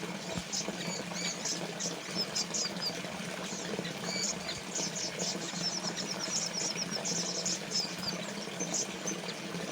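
Trickling, splashing water from a small fountain runs steadily, while small birds chirp and twitter in short high calls throughout, with a quick rapid trill a little past the middle.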